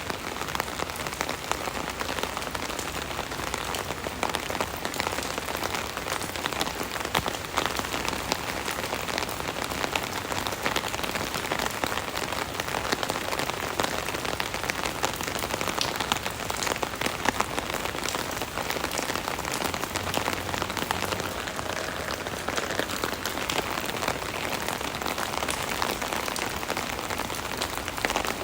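Steady rain heard from under an umbrella: dense drops pattering on the umbrella canopy, with many small distinct drop ticks over a constant rain hiss.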